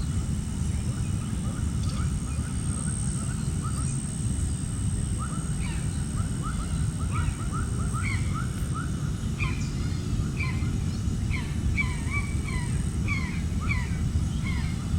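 A flock of birds calling: many short, quick calls overlapping, starting about a third of the way in and growing busier, over a steady low rumble.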